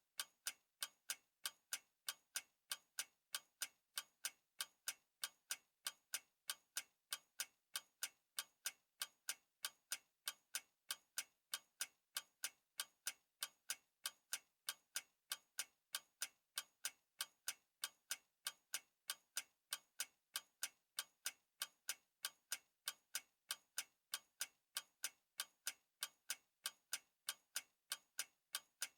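Clock ticking steadily, a sharp even tick about twice a second.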